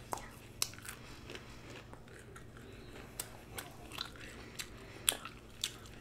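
Close-miked chewing of raw broccoli: a string of sharp, irregular crunches about twice a second.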